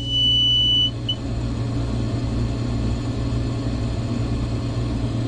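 Steady low machine hum from the combine, with a continuous high-pitched electronic warning tone from the cab that stops about a second in, followed by one short beep. The tone comes right after the key is switched back on during header calibration.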